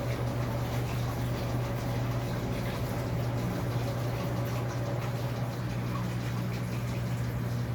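Electrolux LAC13 13 kg washing machine running mid-cycle: water sloshing and splashing in the drum with small drips and ticks over a steady low hum.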